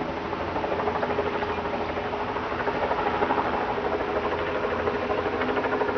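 Helicopter in flight, its rotor beating in a fast, even rhythm over the engine noise, steady throughout.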